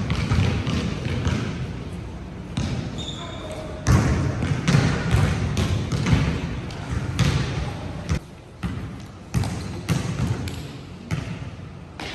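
Basketballs bouncing on a court floor: a string of sharp, irregularly spaced thuds, about one to two a second, with voices around them.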